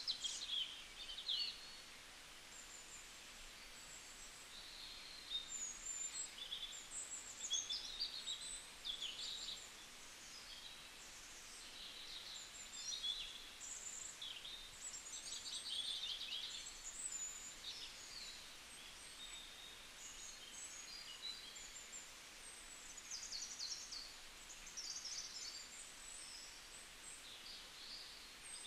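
Birds chirping: many short, high calls following one another throughout, over a steady faint hiss.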